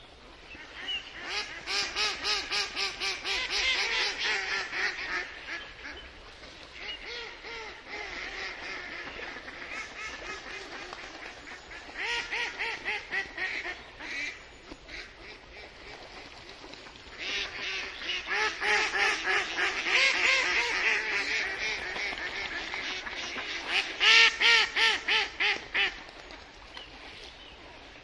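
Ducks quacking in fast runs of repeated calls, in several bouts with short pauses between them. The loudest calls come near the end.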